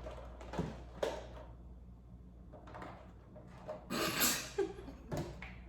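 Handling noises of gingerbread kit pieces being fitted together: a few light knocks and clicks, and a louder rustling scrape about four seconds in, over a low steady hum.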